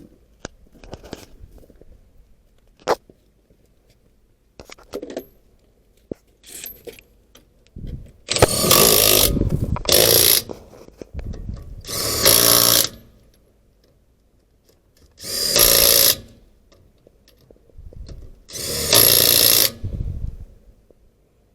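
Impact wrench spinning lug nuts onto a box truck's front wheel in several short bursts of one to two seconds, with a few light metal clicks before them.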